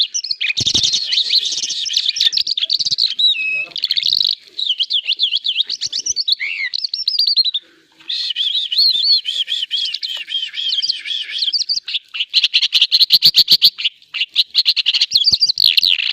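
An Irani Mashadi jal songbird singing a long, fast warbling song of chirps, twitters and trills. It pauses briefly just before the middle, then resumes with a loud, rapid rattling trill.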